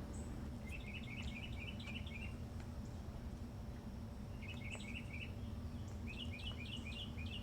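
Faint bird song: three short runs of quick, high repeated chirps, over a steady low hum.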